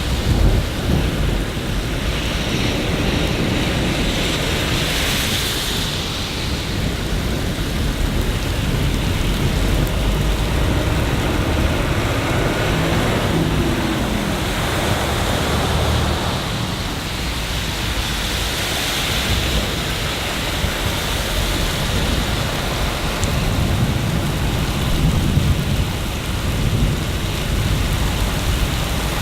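Steady rain with a continuous low rumble underneath, typical of a city rain ambience. A faint tone rises and falls about halfway through.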